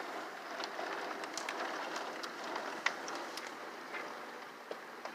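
Heavy rain falling steadily, a dense hiss with scattered sharp ticks of drops striking nearby surfaces, easing slightly toward the end.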